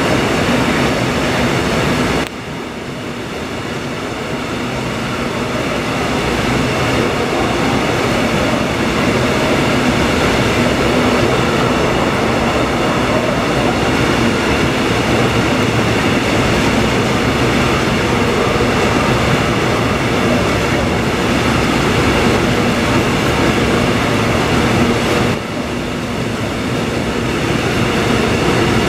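Trains running through the station at close range: a continuous loud rumble and clatter of wheels and wagons, with a steady whine over it. The sound drops abruptly twice, about two seconds in and near the end, and builds up again each time.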